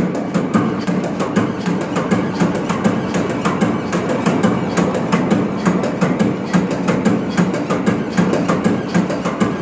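Large low-speed two-stroke marine diesel engine (MAN B&W 5S35ME) running: a steady, rapid clatter of sharp knocks, several a second, over a constant low hum.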